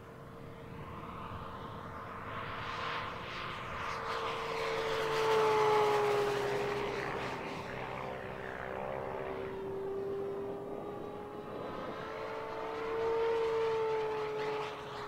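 Electric motor and propeller of a 1.5 m foam RC Focke-Wulf Fw 190A warbird in flight: a steady whine whose pitch drifts up and down as the plane passes. It swells loudest about five to six seconds in and again around thirteen seconds, the two close passes.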